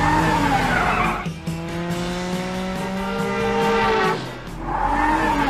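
Cartoon vehicle sound effects over background music. Tires squeal at the start and again near the end, and in between a pitched, engine-like whine slowly rises.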